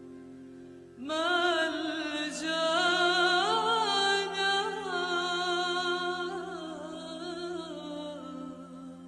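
A woman's solo voice singing a slow Arabic hymn to the Virgin Mary. She enters about a second in and draws out long notes with vibrato over a steady held accompaniment.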